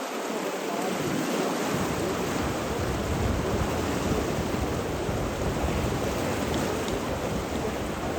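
Steady rushing water, an even hiss with a deeper rumble that fills in about a second and a half in.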